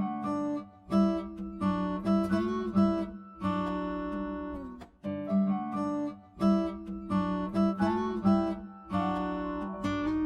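Background music played on acoustic guitar: strummed chords and plucked notes.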